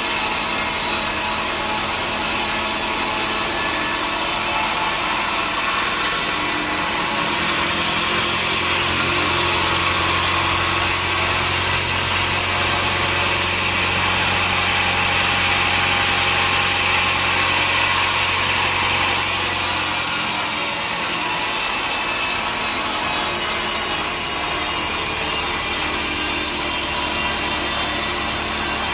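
Sawmill saw cutting through a teak log, a continuous loud grinding rasp of blade in wood. A deeper hum joins about seven seconds in and drops away around twenty seconds.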